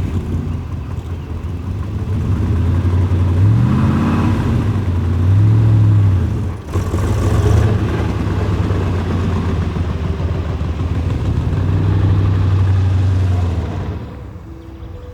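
Corvette Stingray V8 revving as the car pulls away, the revs rising and falling several times with a brief break about six and a half seconds in, then fading away near the end.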